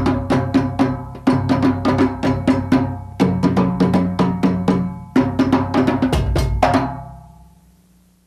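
African drum percussion music: fast, dense hand-drum strokes with pitched drum tones. The playing stops about seven seconds in, and the last stroke rings out and fades away.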